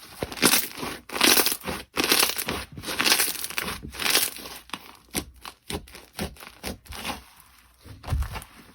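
Slime being squeezed and worked by hand, heard as a series of short noisy bursts about one a second. The bursts give way to quicker, smaller clicks in the second half.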